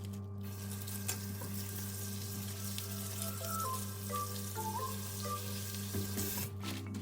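Food sizzling as it fries in a pan, a steady hiss that breaks off briefly near the end, under soft background music with a slow melody.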